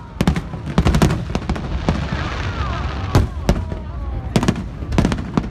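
Aerial firework shells bursting overhead in a rapid barrage: many sharp bangs, some in quick clusters, over a continuous deep rumble.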